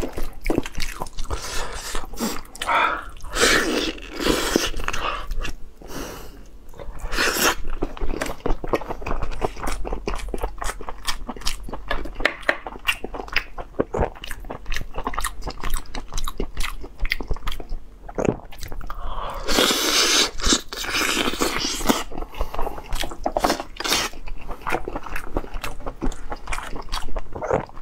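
Close-miked chewing and biting of boiled meat on the bone, with many wet mouth clicks and smacks. There is a louder hissy stretch of a couple of seconds about two-thirds of the way in.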